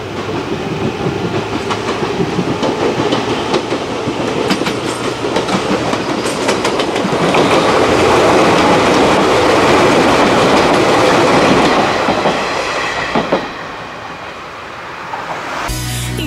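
Izuhakone Railway 3000 series electric multiple unit passing close by. Its rumble builds as it approaches, with clicks of the wheels over the rail joints, is loudest for several seconds as the cars go by, then fades away. Music starts just before the end.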